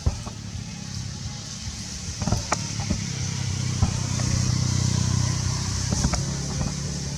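A motor vehicle's engine running, growing louder through the middle and easing off near the end, with scattered sharp clicks and a steady high hiss.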